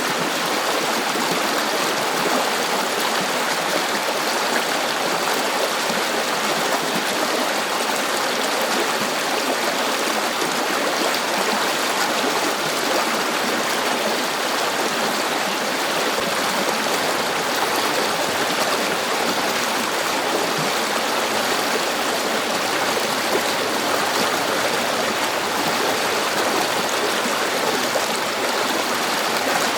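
A river flowing steadily, its water rushing and gurgling in an even, unbroken wash.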